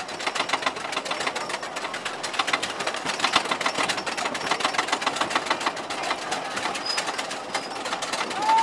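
Thunder Road wooden roller coaster's train clattering on its track: a rapid, steady run of clicks.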